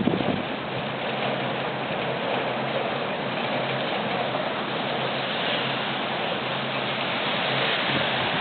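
Steady hiss of heavy thunderstorm rain.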